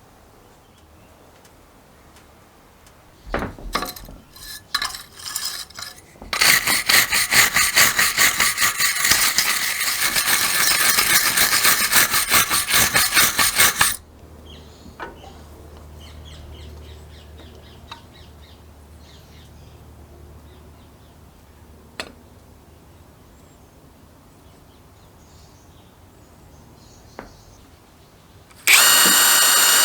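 Small metal parts clinking and tapping, then several seconds of fast, dense metallic rattling and scraping that stops abruptly. Scattered single ticks follow, and a loud, steady power-tool whine starts near the end.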